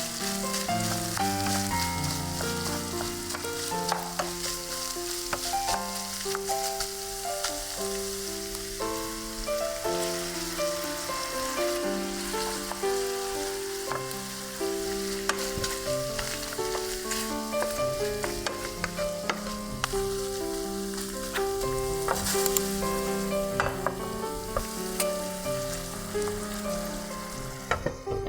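Ground-meat sauce sizzling steadily in a frying pan, with clicks and scrapes of a utensil stirring it, over background music with a stepwise melody. The sizzle drops away right at the end.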